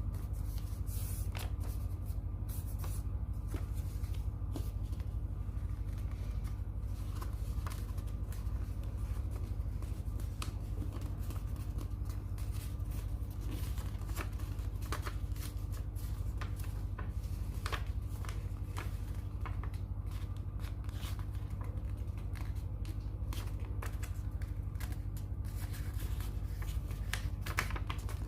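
A sheet of paper being folded and creased by hand into a paper airplane: irregular rustles and short crackles, over a steady low hum.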